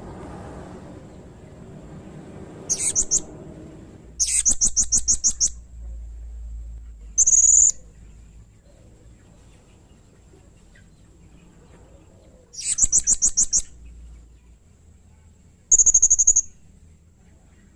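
Blue-crowned hanging parrot (serindit) calling: short bursts of very high, shrill rapid trills and buzzy notes, about five bursts a few seconds apart.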